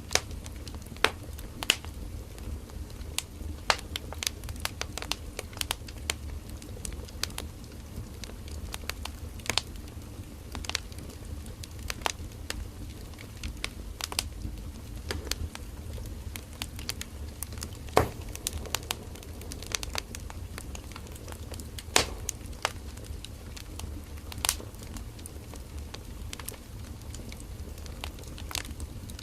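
Firewood burning in a campfire: irregular sharp pops and crackles over a steady low rumble of the flames, with a few louder pops about 18 and 22 seconds in.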